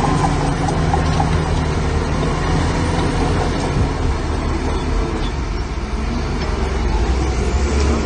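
Heavy diesel construction machinery running steadily at a constant engine note.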